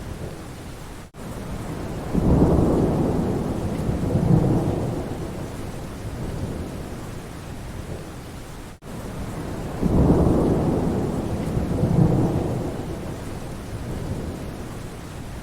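Steady rain falling in a forest, with two rolls of thunder, one about two seconds in and another about ten seconds in, each rumbling for a few seconds before fading. The rain cuts out for an instant twice.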